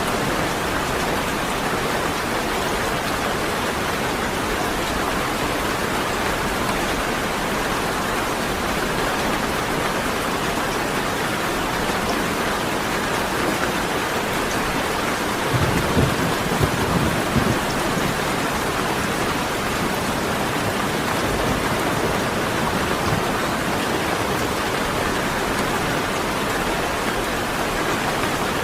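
Heavy rain falling steadily, with a short rumble of thunder about halfway through.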